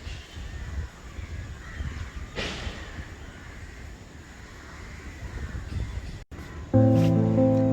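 Outdoor background with a low rumble and one crow caw about two and a half seconds in. After a brief dropout near the end, music starts, much louder.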